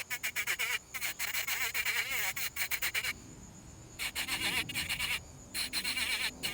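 Rotary carving tool with a burr cutting into tupelo wood in short passes, a rapid chattering grind with a wavering whine, easing off briefly about three seconds in and again near five seconds.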